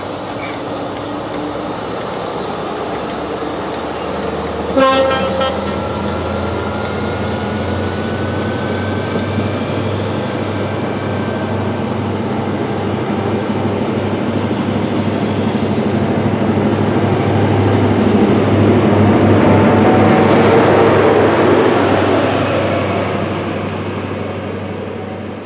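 Diesel High Speed Trains running through, Class 43 power cars: a short horn blast about five seconds in, over a steady low engine drone and wheel rumble that builds to its loudest about twenty seconds in as the second train draws near, then eases off.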